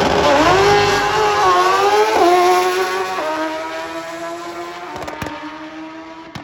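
Drag racing motorcycle launching hard and accelerating away down the strip, its engine note climbing and stepping down at gear changes about two and three seconds in, then fading as the bike gets farther off.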